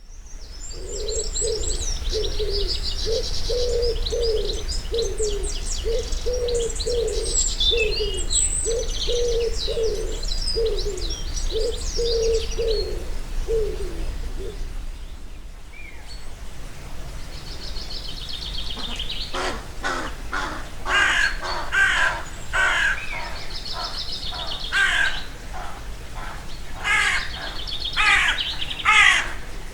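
Woodland birds calling at dawn. For the first 13 seconds or so, one bird gives a low note over and over, a little more than once a second, while small birds twitter high above it. From about 19 seconds in, loud harsh cawing calls come in groups.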